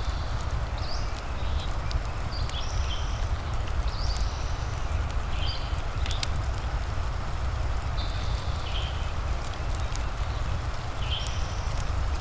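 Layered ambience: a steady hiss of rain over a low rumble, with the sharp irregular pops of a crackling wood fire. A short high-pitched animal call repeats every second or two throughout.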